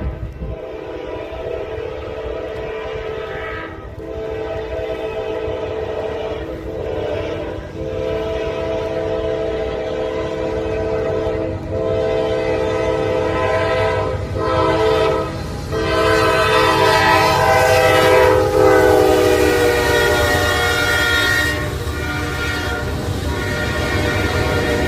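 Nathan Airchime K5LA five-chime locomotive horn sounding a series of long blasts with short breaks between them, over the low rumble of the passing train. The chord sags slightly in pitch about three-quarters of the way through.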